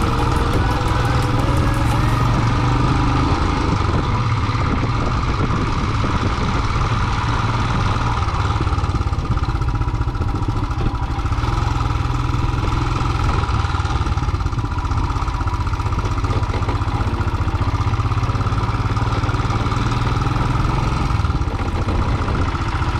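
Single-cylinder Royal Enfield motorcycle engine running steadily while riding, with an even, unbroken engine note.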